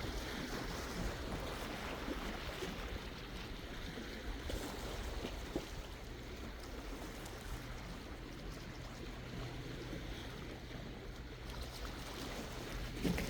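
Sea water washing and lapping against the shore, a continuous wash with a louder surge near the end, over a steady low hum.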